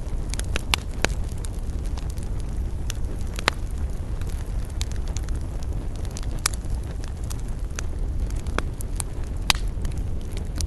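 Wood campfire crackling: irregular sharp pops and snaps, a few each second, over a steady low rumble.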